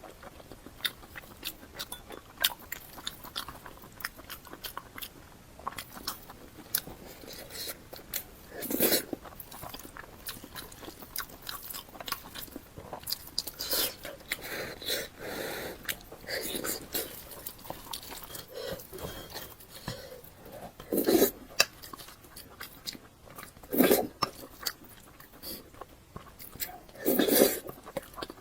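Close-miked eating sounds: steady chewing with many small crisp clicks and crunches, and a few louder bites or mouthfuls every few seconds.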